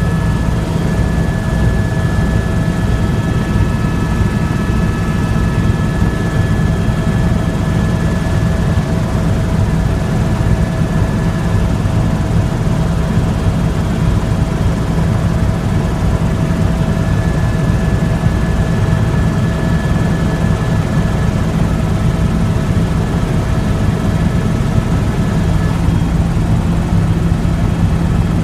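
Tour helicopter's rotor and turbine engine running steadily: a loud, even low drone with thin, steady high-pitched whine tones above it.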